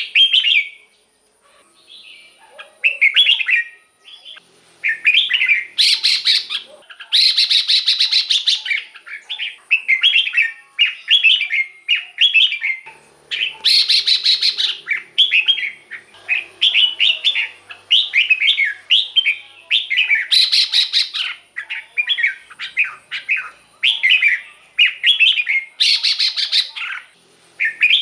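Red-whiskered bulbul singing: a steady run of short, bubbly whistled phrases, each under a second, mixed with several louder, harsher chattering bursts.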